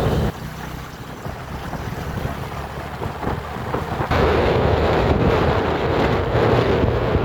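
Motorcycle riding with its engine running and wind buffeting the microphone. The engine note drops away about a third of a second in. A little past halfway the wind rush comes in loud, with the engine running underneath.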